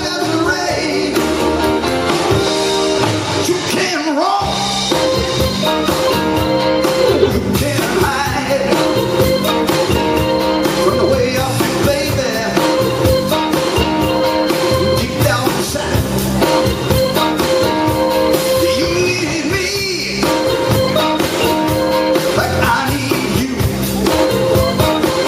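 Live blues band playing a song, with a singer's vocals over the instruments.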